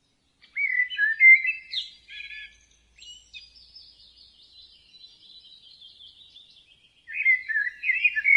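Bird song: after a moment of silence, a loud warbling phrase comes in about half a second in, softer high chattering follows, and a second loud warbling phrase comes near the end.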